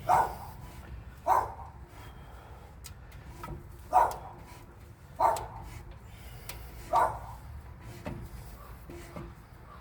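A dog barking, five single barks spaced unevenly a second or two apart.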